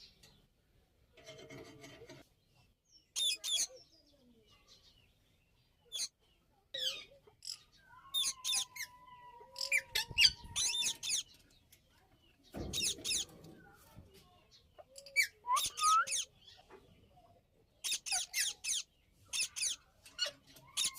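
Indian ringneck parakeets calling in short, high-pitched squawks that come in quick clusters of three or four, with a long steady whistled note near the middle and a couple of rising squeaks later. Two dull thumps come about halfway through.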